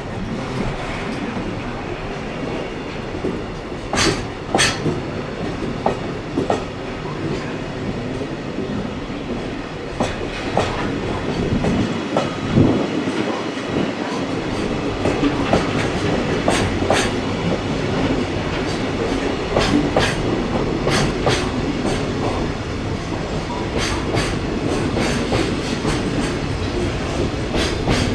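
A JR West electric train passing at speed on the Biwako Line: a steady rumble of running gear, with the wheels clacking sharply over rail joints many times and more densely in the second half.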